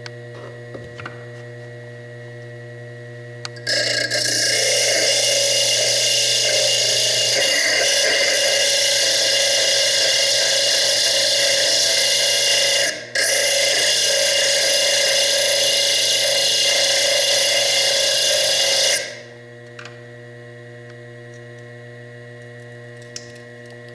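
Foredom bench lathe's slitting disc cutting into the chalcedony cap of a fire agate: a loud, steady grinding hiss that starts abruptly about four seconds in, breaks off for an instant midway and stops about five seconds before the end.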